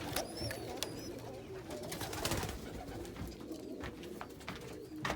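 Domestic pigeons cooing steadily in a loft, with scattered light clicks and a few short high peeps in the first half second.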